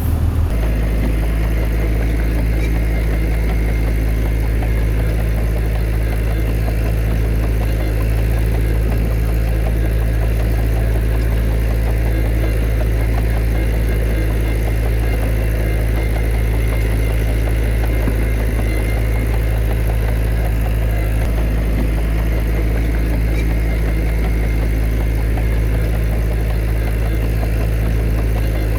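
Heavy diesel engine running steadily at idle or low speed, an even low drone that does not change.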